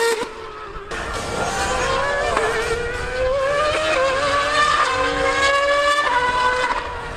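A high-revving racing engine running hard at speed, its pitch climbing and dropping several times as it pulls through the gears.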